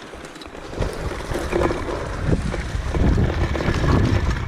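Wind buffeting the microphone and bicycle tyres rattling over a rough dirt trail, growing louder about a second in as the bike picks up speed.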